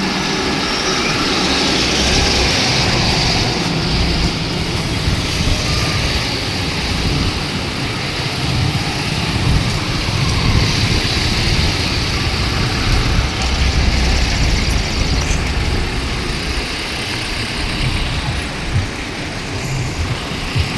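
Road traffic of cars, buses and trucks, their engines running steadily with a constant low rumble.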